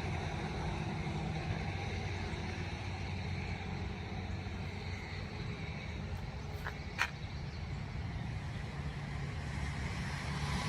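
Steady low rumble of distant road traffic, with two faint clicks about seven seconds in.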